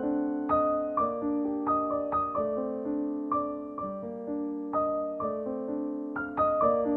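Soft piano background music, slow gentle notes struck about twice a second and left to ring.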